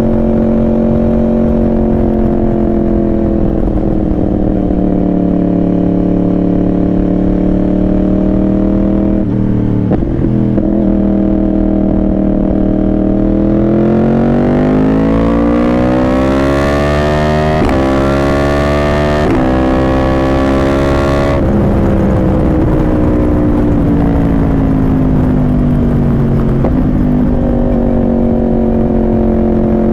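Yamaha R1 inline-four sportbike with a Yoshimura exhaust, riding along with the revs slowly easing, then accelerating hard about halfway through with two quick upshifts. Near the end of the run the throttle shuts suddenly and the engine note falls away on the overrun, then it picks up again.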